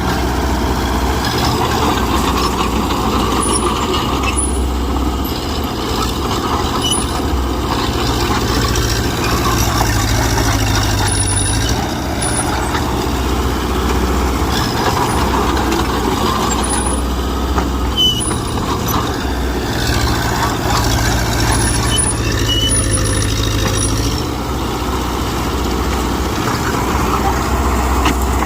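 Mitsubishi BD2G bulldozer's diesel engine running steadily under load while pushing soil, its low note swelling and easing every few seconds as the load changes.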